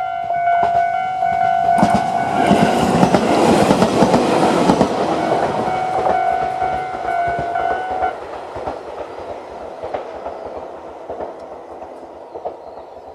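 A Japanese railway level crossing's warning bell ringing with a steady repeating tone while a Tobu 8000 series train passes over the crossing, loudest about two to five seconds in with wheels clacking over the rails. The bell stops about eight seconds in and the train noise fades away.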